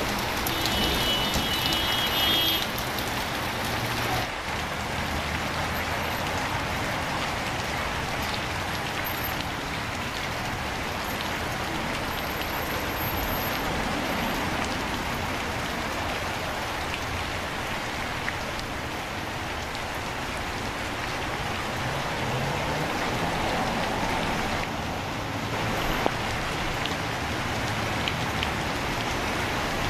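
Steady rain falling on a city street, a constant hiss of rain on the pavement, with traffic moving on the wet road beneath it. A short high-pitched tone sounds about a second in.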